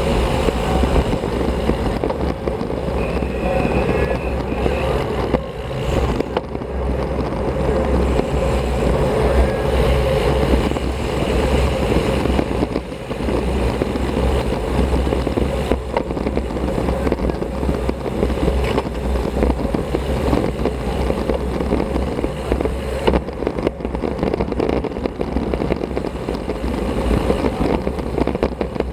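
Wind rushing and buffeting over a helmet or bike-mounted action camera's microphone while riding a road bike, with rolling road noise underneath. The noise is steady and loud, heaviest in the low end.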